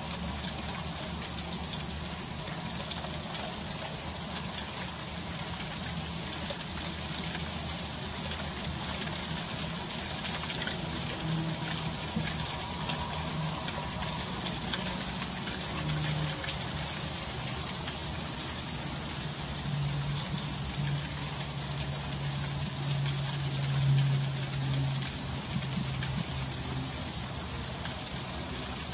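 Freezing rain falling in a steady, dense patter of fine ticks on icy surfaces. A low hum swells and fades through the middle and latter part.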